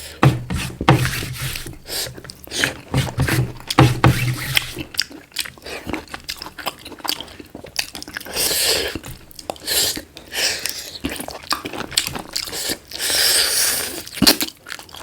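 A person chewing and biting into black chicken, with many short crunchy clicks and wet mouth sounds.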